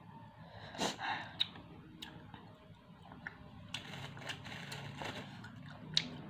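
A bite into a crispy basreng (fried meatball) stick about a second in, then crunchy chewing with sharp clicks.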